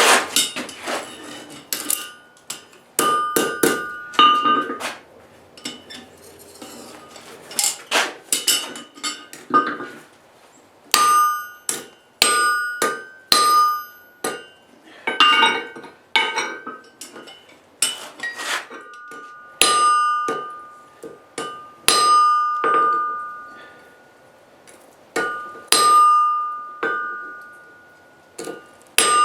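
Blacksmith's hammer striking steel on an anvil: irregular blows about once a second, some in quick pairs, each leaving the anvil ringing with a clear bell-like tone that dies away.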